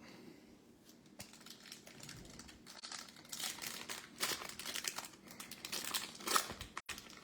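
Crinkling of a trading card pack's wrapper as the pack is handled and torn open: quiet at first, then a dense run of irregular crackles from about two seconds in.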